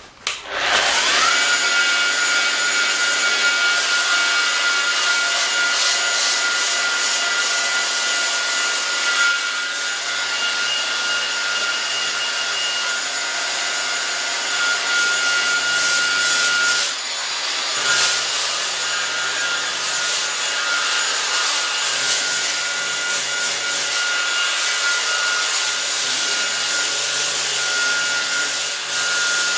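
Power sander with a sanding disc spinning up with a rising whine about a second in, then running steadily while grinding old paint and rust off the mower's steel. It eases off briefly about two-thirds of the way through and carries on.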